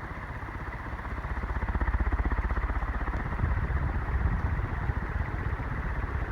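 48-inch UFO industrial ceiling fan running steadily at high speed: a motor hum and the rush of its air, with a throbbing low rumble that grows louder about a second and a half in. The owner hears a little dryness from the bearings.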